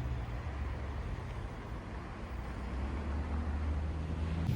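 Steady low rumble of a running engine, with an even hiss over it; the sound changes and gets brighter near the end.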